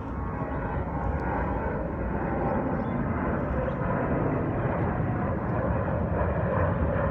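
Boeing 737-700 jet airliner taking off, its twin CFM56-7B turbofan engines running at takeoff thrust, a steady deep roar growing louder as it rolls and climbs.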